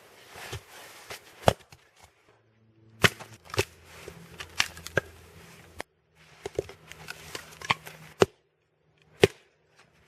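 Sawn firewood being split into smaller pieces: a series of about ten sharp chopping knocks at irregular intervals.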